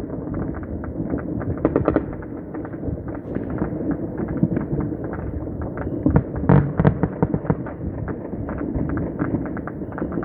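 Dense, continuous crackle of many firecrackers and fireworks going off at once, with louder bangs about two seconds in and again past the middle.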